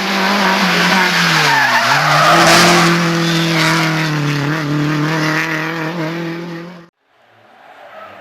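Race car engine running hard; its pitch falls for about two seconds, jumps up and then holds steady, with a rushing noise around it at its loudest. It cuts off abruptly near the end, and another engine fades in faintly.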